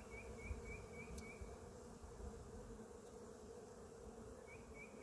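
Honeybees buzzing around an opened hive: a low, steady hum.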